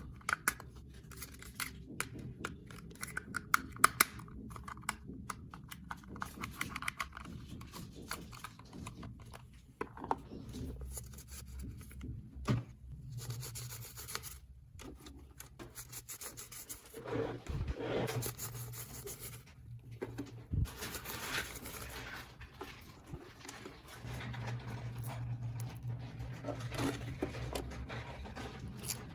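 Hands handling small plastic toy pieces and packaging: many light clicks and taps, with stretches of rubbing and scraping.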